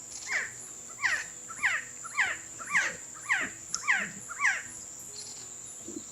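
Resplendent quetzal calling: a series of eight loud, sharply down-slurred calls, about two a second, which stop about two-thirds of the way through. A steady high insect drone runs underneath.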